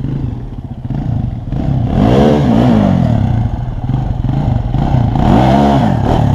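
Small off-road vehicle engine idling, then revved up and let back down twice: once about two seconds in and again near the end.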